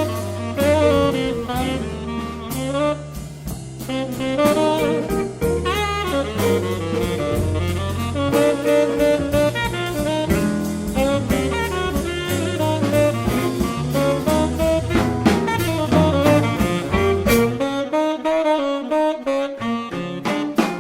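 Small jazz band playing a blues: a saxophone solo over bass and drums with regular cymbal strokes. The bass drops out for a moment near the end.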